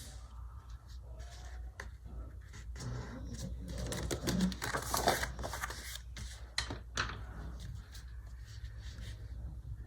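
Paper being handled on a desk: irregular rustling with small taps and clicks, busiest about four to five seconds in, over a steady low hum.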